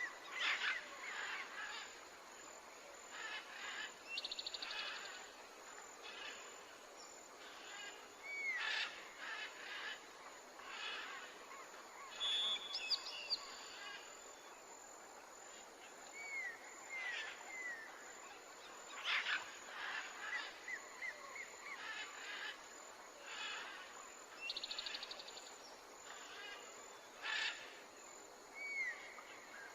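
Recorded birdsong from several birds: short chirps, brief curving whistles and rapid trills every second or two, with a few sharper, louder calls, over a faint background hiss.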